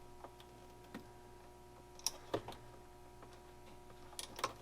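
Scattered small clicks and ticks of wire strippers taking insulation off the ends of electrical wires, with a few sharper ones about two seconds in and near the end, over a faint steady hum.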